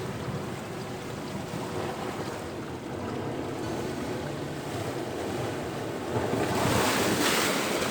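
Sea surf washing on the shore in a steady wash, swelling louder near the end as a bigger wave comes in.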